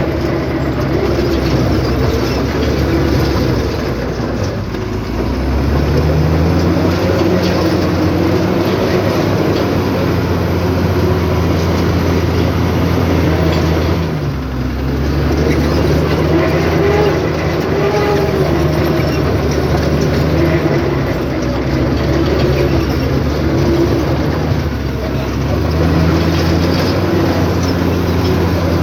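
Heavy diesel engine of earthmoving equipment working, its note stepping up under load about five seconds in, dropping briefly around the middle, and stepping up again near the end.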